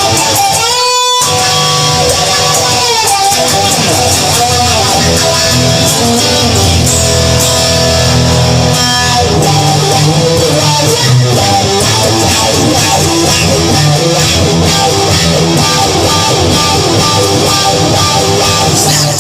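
Rock instrumental break: strummed electric guitar over a bass line, with held, bending guitar notes near the start and a brief gap about a second in.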